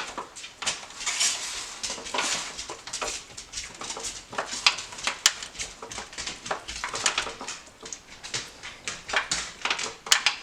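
Irregular clicks, scrapes and soft rustles of hands tearing apart a smoked venison shoulder on a tray.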